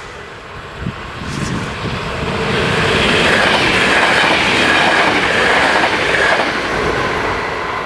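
NS VIRM double-deck electric train passing close by. The rolling noise of its wheels on the rails builds over the first couple of seconds, stays at its loudest through the middle, and starts to fade near the end.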